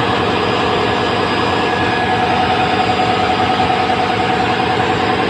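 Loud, steady drone of ship's engine-room machinery running, with a steady hum.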